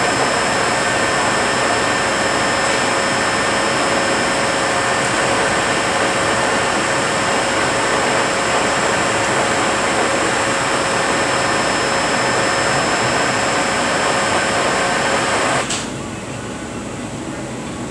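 Rebuilt Eaton Fuller RTLO-18913A 13-speed truck transmission spinning on a test dyno: a steady mechanical running noise with a high gear whine of several tones. Near the end the whine stops and the sound drops to a quieter steady run.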